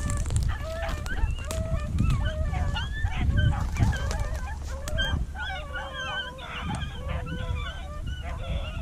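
A pack of beagles baying in chorus on a rabbit's trail, several voices overlapping and growing thicker about halfway through, over a low rumble on the microphone.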